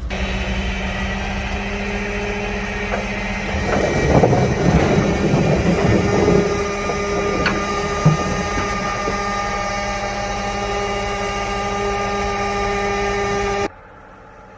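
Engine of an old GMC logging truck running steadily. It turns rougher and noisier for a few seconds partway through, then cuts off suddenly near the end.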